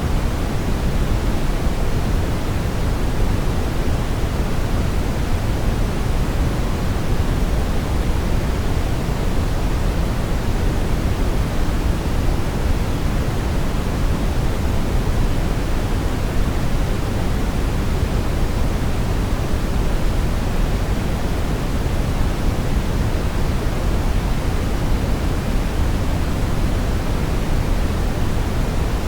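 Steady brown noise: an even, unchanging rumbling hiss, strongest in the low end.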